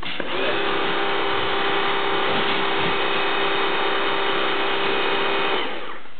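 Kärcher pressure washer running: a steady whine from its motor and pump over a steady hiss. It starts just after the beginning and cuts off near the end.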